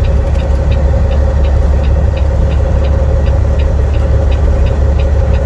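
Semi truck's diesel engine running steadily on the road, heard from inside the cab as a constant low drone. A faint light ticking repeats about four times a second.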